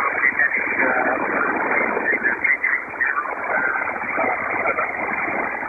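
A pilot's voice over HF single-sideband aircraft radio, garbled and buried in static, too distorted to copy.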